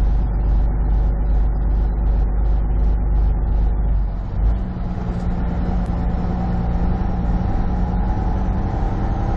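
Semi truck cruising, engine and road noise heard inside the cab, with a faint regular ticking about two or three times a second through the first half. About four and a half seconds in the deep rumble drops off and a steadier engine hum takes over.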